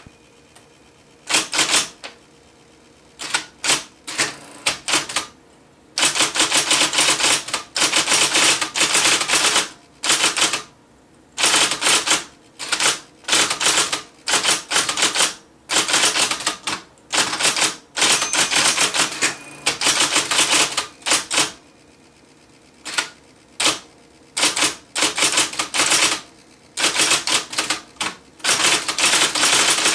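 IBM Selectric III electric typewriter being typed on: quick runs of its golf-ball type element striking the platen, with rapid clicks and clacks coming in bursts of a second or several seconds, separated by short pauses.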